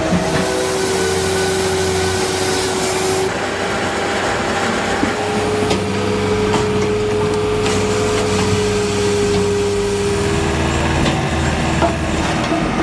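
Firewood processor running: a steady machine hum and whine with wood being sawn. Its pitch shifts about three seconds in and again near the end.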